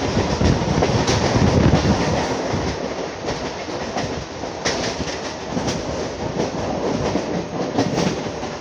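Mumbai suburban electric local train running at speed, heard from inside the coach: a steady rumble of wheels on the track with scattered clicks over the rail joints.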